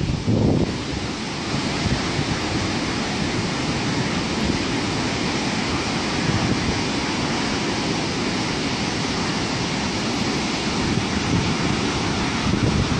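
Wind blowing across the microphone, a steady rushing noise with a heavier low buffeting gust at the start.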